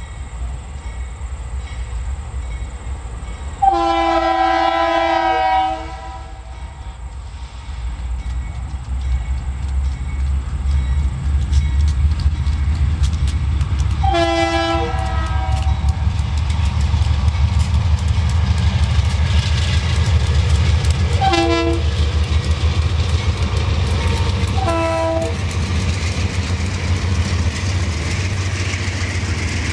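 Former Conrail GE C40-8W diesel locomotive leading a freight train past, its V16 diesel engine working hard and growing louder as it nears. The air horn sounds four times, two long blasts and then two short ones. Near the end the autorack cars roll by with wheels clattering over the rail joints.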